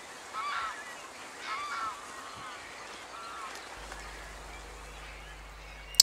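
A bird calling three times in the first few seconds, each call short and rising then falling in pitch.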